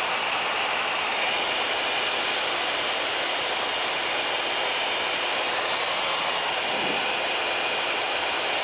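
Steady in-flight cabin noise of a Mooney M20K single-engine light aircraft, its piston engine and propeller running at an even cruise setting.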